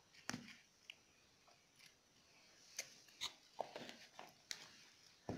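Faint sounds of someone eating: a few irregular clicks and smacks of chewing, with long quiet gaps between them.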